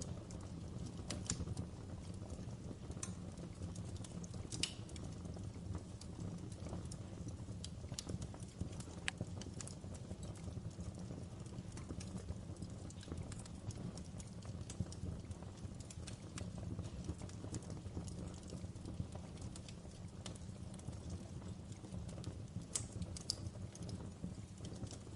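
Fire burning in a fireplace: a steady low rumble of flames with irregular crackles and sharp pops.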